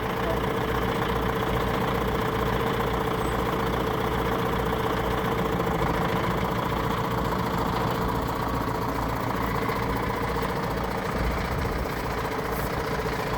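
Tractor engine running steadily under way, with a regular low throb.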